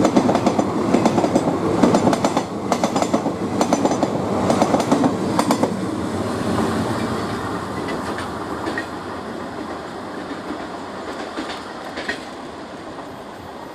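Passenger coaches of a long express train passing at speed, the wheels clattering over rail joints in a rapid clickety-clack. The sound fades steadily as the last coach goes by and the train moves off.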